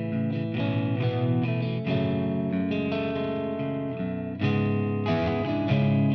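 Electric guitar playing chords through effects, with some distortion, in the instrumental opening of an indie rock song; the band comes in louder about four seconds in.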